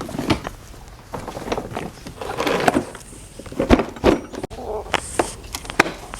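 Irregular clicks and knocks with short scraping and rustling noises, like parts being handled.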